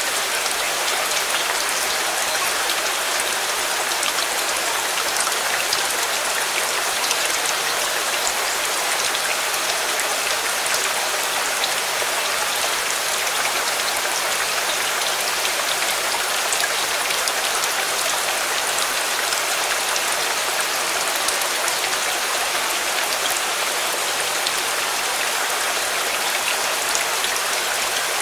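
Steady rain falling, a dense even hiss with scattered faint ticks of drops.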